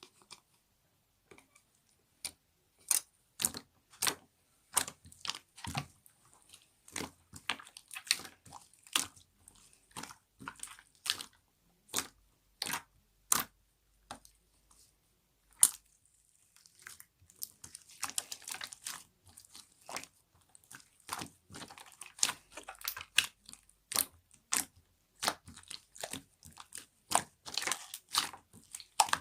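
Slime topped with clay being squeezed and played with, giving a string of sharp clicky pops about one or two a second, with denser crackling stretches in the second half.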